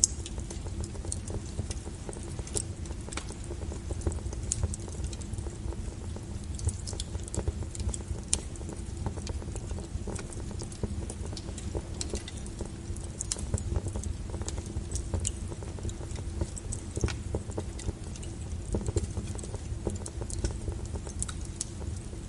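Wood fire burning: irregular sharp crackles and pops scattered throughout over a steady low rumble.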